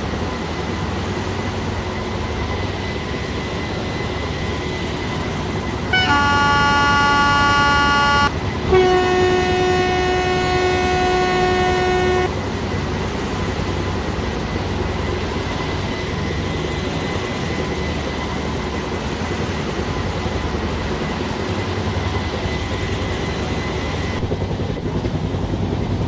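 WAP-7 electric locomotive's horn sounding twice, about six seconds in: a blast of about two seconds, then after a short gap a longer, lower-pitched blast of about three and a half seconds. Underneath is a steady noise from the train.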